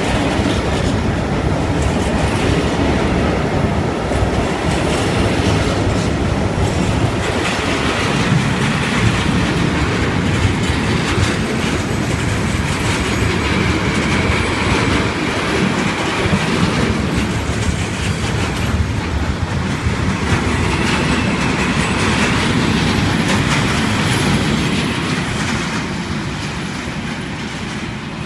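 A train passing along the tracks, its wheels clattering over the rail joints with a high squeal coming and going. The sound stays loud and steady, then fades over the last few seconds as the train moves away.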